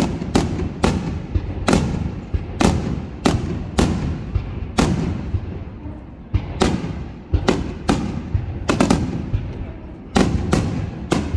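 Fireworks starmine barrage: shell bursts going off in rapid succession, about two sharp bangs a second over a low rumbling echo, with a brief lull about five seconds in before the volley picks up again.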